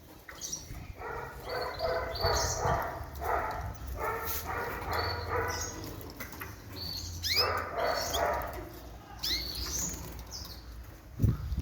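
Small cage birds chirping in short, high calls, mixed with repeated clusters of lower whining calls, over a low rumble, with a thump near the end.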